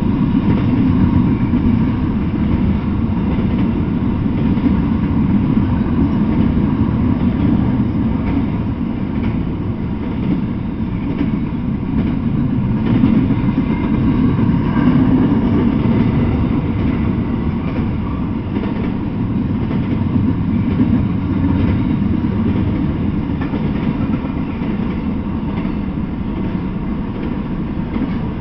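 Intermodal freight train's cars rolling past: a steady, loud rumble of steel wheels on rail, with slight swells about a second in and around halfway.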